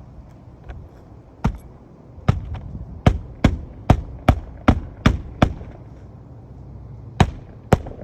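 A hammer striking during roof shingle repair: about a dozen sharp blows, a steady run of roughly two and a half a second in the middle, then two more near the end.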